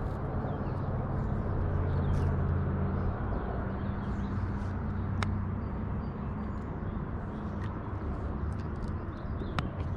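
Steady low engine hum over a rushing outdoor background, strongest for the first few seconds, with two sharp clicks.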